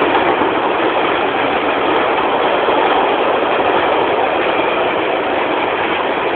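Freight train wagons rolling past on the rails, a loud, steady, even noise of wheels and running gear.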